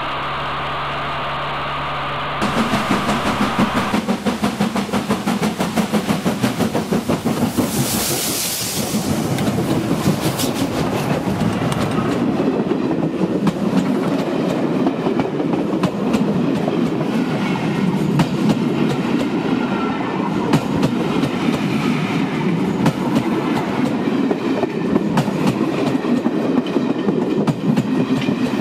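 A train rolling directly over a camera set between the rails: a dense, rapid clickety-clack of wheels over the track and a rumble from the carriages, with a brief hiss about eight seconds in. Before it, a motorbike engine runs steadily for the first two seconds and cuts off abruptly.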